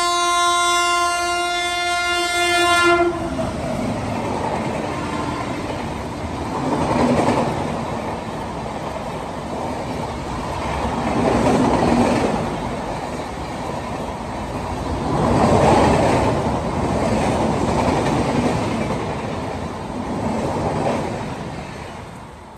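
Train horn blowing one long steady blast that stops about three seconds in, then a train passing close by, its wheels clattering over the rails in a rumble that swells and eases every few seconds before fading near the end.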